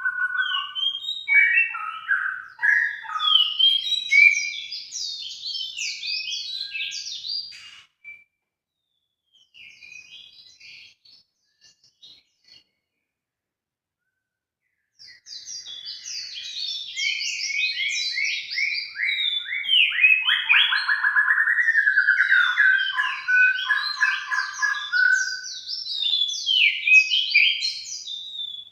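Songbird singing in fast, varied chirps and trills, a lure (pancingan) birdsong recording of the kind played to set kept birds singing. The song drops almost out for several seconds in the middle, with only a few faint chirps, then resumes dense and continuous.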